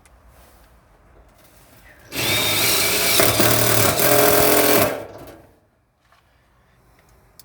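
Power drill running in one burst of about three seconds near the middle, its motor pitch shifting under load before it winds down.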